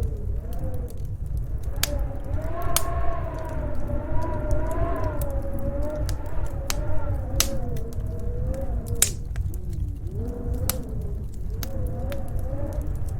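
Storm wind howling in a slowly wavering, rising and falling whistle over a steady low rumble, with a wood fire crackling and popping in sharp irregular snaps.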